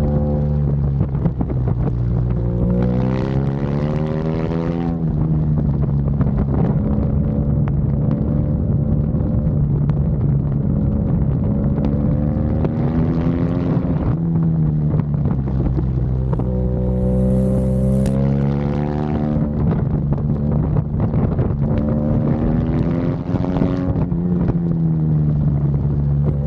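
BMW GS motorcycle engine running under way, its pitch climbing and dropping back several times as it accelerates, with wind on the microphone.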